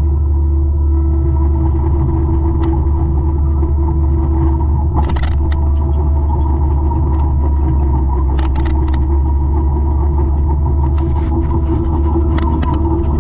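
Diesel engine of a 200-horsepower forestry mulcher running steadily under load: a deep rumble with a steady hum over it. Scattered sharp clicks and cracks come through, in small clusters about 5 s in, about 8.5 s in and near the end.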